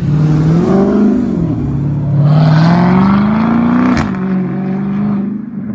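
A car engine being revved: the pitch rises and drops back about a second in, then climbs slowly for a couple of seconds before settling to a steadier note after a sharp click near four seconds.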